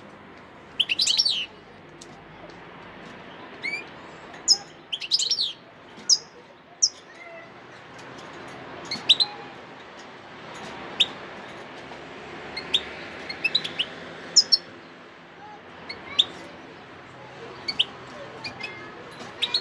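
European goldfinch singing: a couple of quick twittering bursts, then scattered sharp single chirps.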